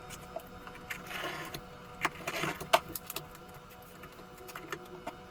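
Cardboard being handled: scattered clicks and taps, two short rustles about one and two seconds in, and a sharp click near the three-second mark.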